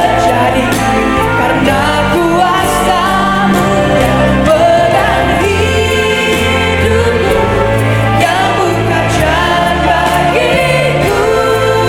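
A live band playing an upbeat praise song, with sung vocals over held bass notes and a steady drum beat.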